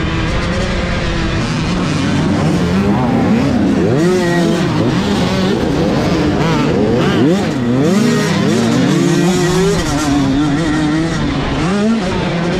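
Several motocross bikes racing, their engines revving up and down with overlapping pitches rising and falling as they come off and back on the throttle.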